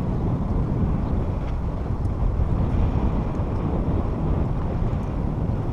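Steady low wind rumble on the microphone of a camera riding along on a moving bicycle.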